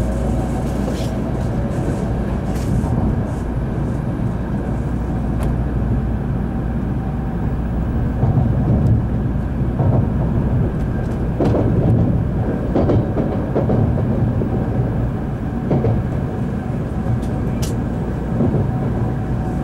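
Cabin noise inside a Series N700 Shinkansen train on the move: a steady low rumble of the running train, with a few faint sharp ticks.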